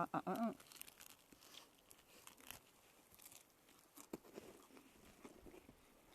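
Biting into a warm sausage with a crunchy skin and chewing it close to the microphone: faint, scattered crunches and crackles.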